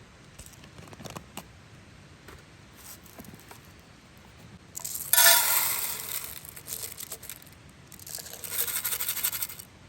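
Scraping, rattling handling of a pot of washed rice as it is set to soak: a few light clicks, then a loud noisy burst about five seconds in and a weaker one near the end.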